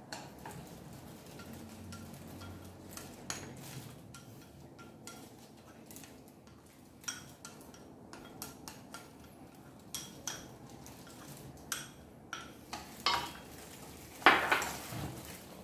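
A kitchen utensil clinking and tapping against a bowl in scattered, irregular strikes, with a louder clatter near the end, while food is being prepared and mixed.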